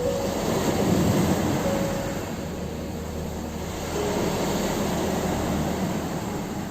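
Ocean waves breaking and washing up a shore as a steady rushing noise, swelling about a second in and again around four seconds. A few faint held notes of soft music sound over it.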